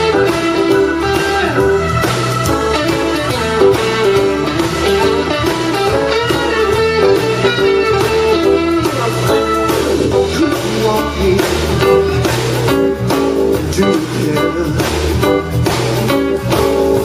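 Blues band playing live, guitar leading with a bass line underneath; instrumental, no singing.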